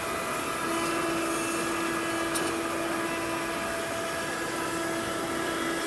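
Oliver CNC router carving wood: the spindle whines steadily over the noise of the cutting bit. The whine sets in about a second in, and there is a sharp tick about two and a half seconds in.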